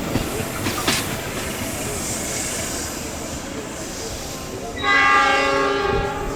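A passing train's wheels and carriages rumble steadily, with a sharp knock about a second in. Near the end the locomotive's horn sounds once, a loud steady chord lasting about a second and a half.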